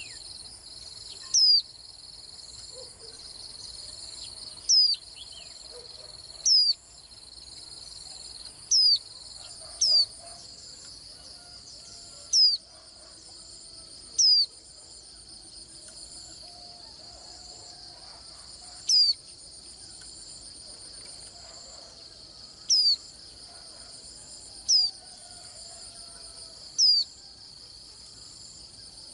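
A white-eye's short, sharp high chirps, about a dozen at irregular intervals and the loudest thing heard, over a continuous high-pitched insect trill.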